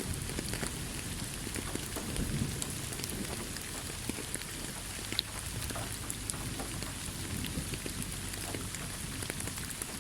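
Steady heavy rain falling, with many scattered sharp drop ticks over a low, even rumble.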